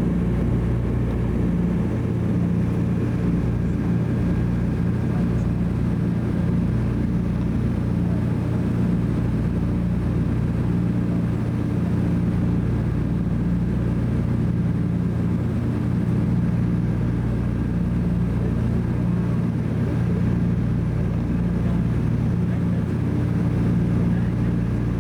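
The twin Pratt & Whitney R-1830 radial engines of a Douglas DC-3 running steadily in cruise, heard from inside the cabin as a constant low drone with a steady hum.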